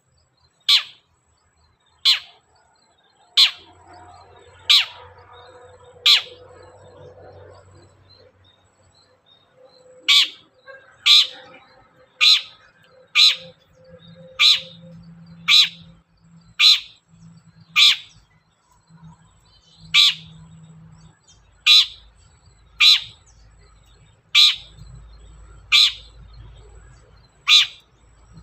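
Long-tailed shrike (cendet) calling: a string of sharp, loud notes that sweep steeply down in pitch, about one a second, with a pause of a few seconds near the start.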